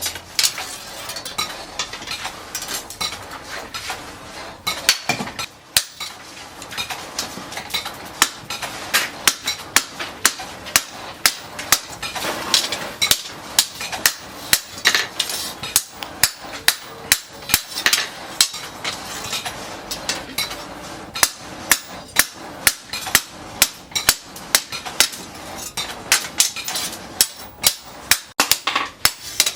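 Blacksmith's hammer striking steel on an anvil in a steady rhythm, about two blows a second, each a sharp metallic ring.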